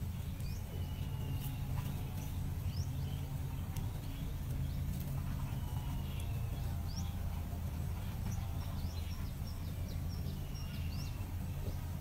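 Small birds chirping: scattered thin high chirps, quick rising whistles and a few short held notes, over a steady low hum.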